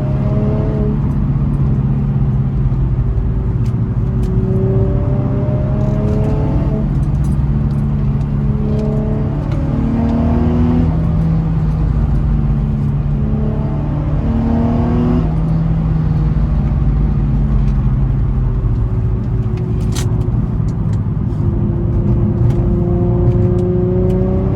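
Infiniti G35's 3.5-litre V6 engine and exhaust under repeated acceleration, heard from inside the car. The engine note climbs in pitch about five times and drops back between pulls, over a steady low drone, on the stock exhaust.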